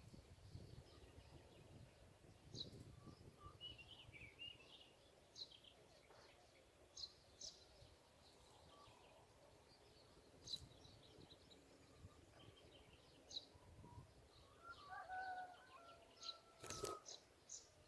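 Faint, scattered short high bird chirps, with a few lower whistled notes and a sharp click near the end.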